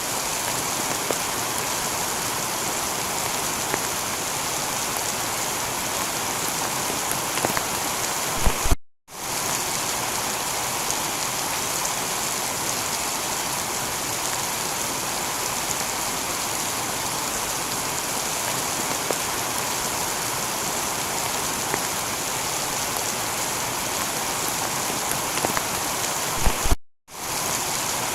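Heavy, steady rain shower on a tiled roof, with scattered drips ticking through it. Twice the sound cuts out for a fraction of a second, each time just after a few louder taps.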